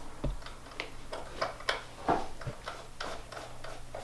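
Light, irregular clicks and taps, two or three a second, over a steady low hum.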